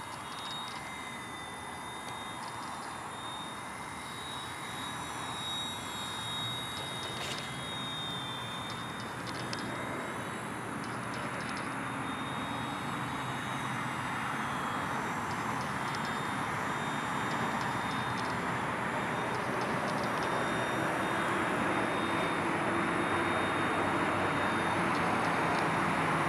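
V911 micro RC helicopter in flight: the steady whirr of its spinning rotor blades with a thin high electric-motor whine, growing gradually louder.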